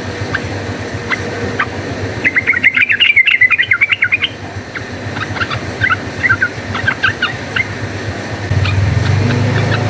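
Sooty-headed bulbul calling: scattered short chirping notes, a fast run of chattering notes about two to four seconds in, then more scattered calls. A low steady hum comes in near the end.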